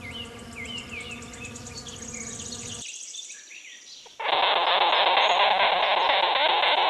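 A wasp buzzing steadily in flight, with small birds chirping faintly behind it. After a short quiet gap the buzzing gives way to a much louder, steady harsh rasping noise that lasts to the end.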